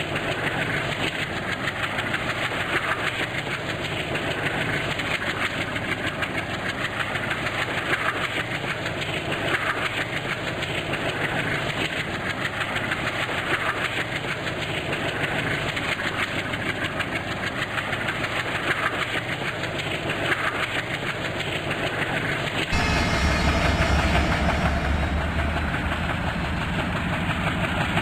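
A passenger train running on the rails, its wheels clicking over rail joints every second or so over a steady rumble. Near the end the sound changes abruptly to the deep, steady drone of a diesel locomotive engine.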